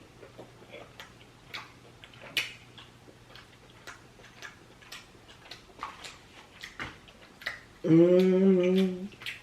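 Close-up mouth sounds of someone eating seafood: scattered soft chewing and lip-smacking clicks. About eight seconds in comes a loud, steady hummed "mmm" of enjoyment, lasting about a second.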